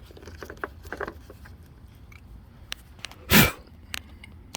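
Light clicks and clatter of hand tools and loose hardware being handled over an engine, with one short, loud knock or rustle about three seconds in and a single click after it.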